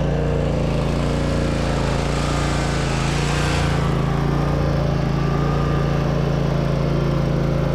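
Riding lawn mower's small engine running at a steady speed while towing a truck chassis. A rush of noise swells about two seconds in and fades before four seconds.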